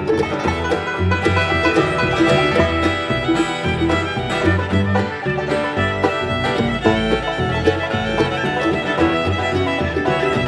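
Bluegrass band playing an instrumental passage, with fiddle and banjo over guitar and a walking bass.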